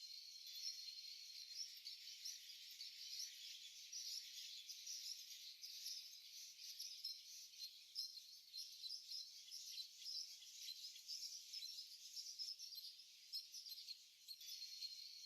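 Many small ornamental cage birds chirping and chattering continuously, a faint, dense high-pitched twittering of overlapping calls.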